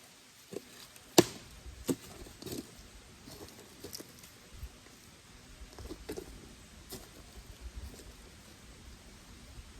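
Wood campfire crackling, with irregular sharp pops; the loudest comes about a second in and a smaller one just before two seconds.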